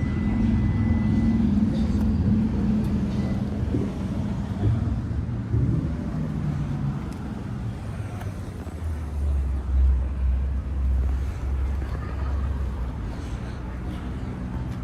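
Car engines running, with a deep low rumble that swells a little past the middle.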